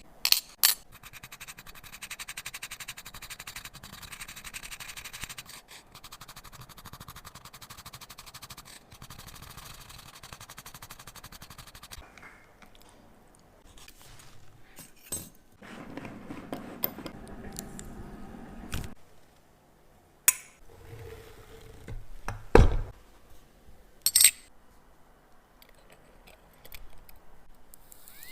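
Watch repair work on a bench: a steady scraping for about the first twelve seconds, then scattered clicks and clinks of small metal tools and watch parts.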